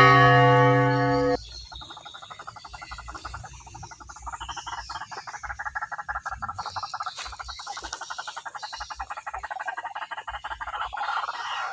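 A loud, steady buzzing tone that cuts off after about a second and a half. Then a fast, even train of croaking pulses, several a second, going on steadily.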